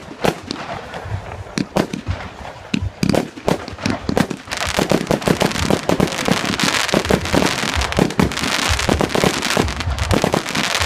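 Fireworks display: irregular bangs of exploding fireworks, which about halfway through thicken into a dense, continuous barrage with a steady hiss between rapid bangs.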